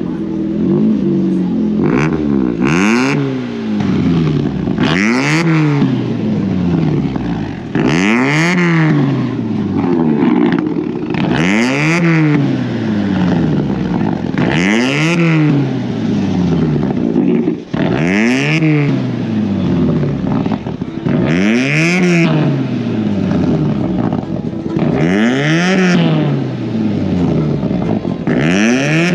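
Modified Nissan's engine revved over and over, about every three seconds. Each rev climbs and then falls back to idle, with a hissing rasp at the peak.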